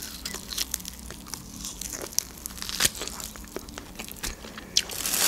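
Close-miked biting and chewing of a chunk of grilled shashlik meat, with many small wet mouth clicks and smacks. A short, louder rustle comes at the very end.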